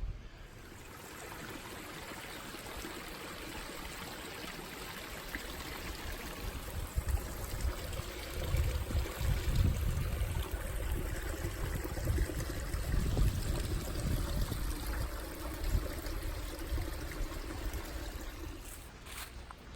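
A small stream running and trickling, growing louder toward the middle, with low rumbling underneath.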